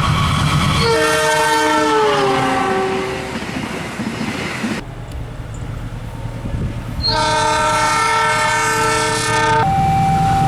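Train air horn sounding chords over the rumble of a passing train: a first blast falls in pitch as the train goes by, and a second long, steady blast comes about seven seconds in.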